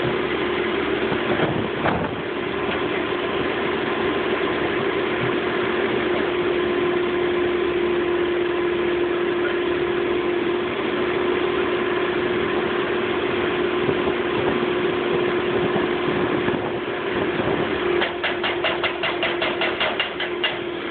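Heavy construction-machine diesel engine running steadily, with a constant whine over the engine note. Near the end comes a quick run of short knocks, about six a second, for a couple of seconds.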